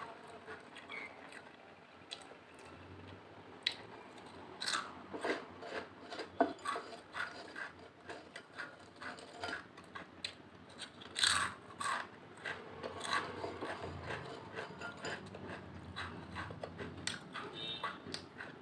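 Close-up crunching and chewing of Lay's potato chips: a rapid, irregular run of sharp crisp crunches.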